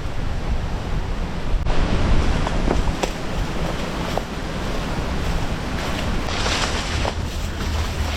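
Wind-driven waves washing onto a beach, with gusting wind rumbling on the microphone; one wave washes in louder about six and a half seconds in.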